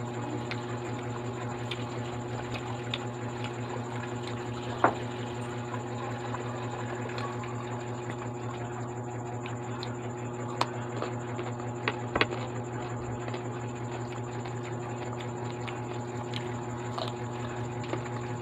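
Chewing and mouth sounds of a person eating French fries, with a few short sharp smacks, one about five seconds in and a cluster between ten and twelve seconds in. A steady low hum with a faint high whine runs under it.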